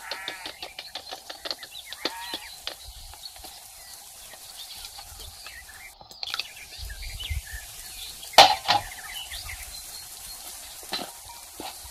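A spatula clicking and scraping in a plastic bowl as flour is stirred, in quick taps at first. Birds chirp in the background, and there is one sharp knock about eight seconds in.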